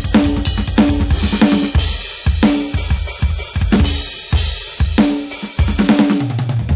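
Roland TD-17KVX electronic drum kit played through its sound module. It opens with fast, even bass drum strokes under snare and hi-hat, then moves to cymbal crashes over bass drum and snare beats, with a low tom hit near the end.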